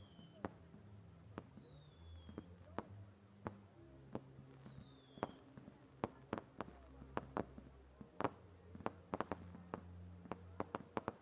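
Fireworks crackling and popping, many sharp bangs that come thicker from about halfway through, with a few short falling whistles in the first half.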